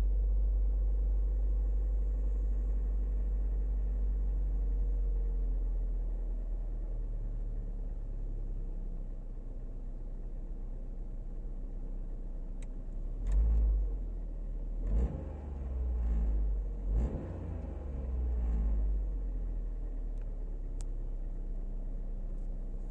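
Opel Meriva B's 1.4-litre turbocharged petrol engine (A14NEL, 120 hp) idling after a cold start, the raised idle settling lower over the first few seconds. About halfway through, a series of short revs rise and fall back, and then it returns to a steady idle.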